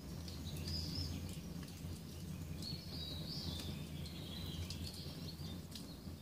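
Small birds chirping and twittering in short high calls over a low, steady rumble, with a few faint clicks.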